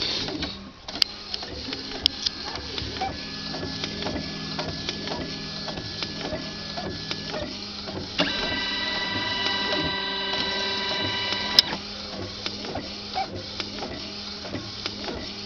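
Epson CX3700 inkjet printer printing a page, running normally without the carriage jamming: steady mechanism noise with small ticks and a few sharp clicks, and a steady motor whine for about three seconds past the middle, ending with a click.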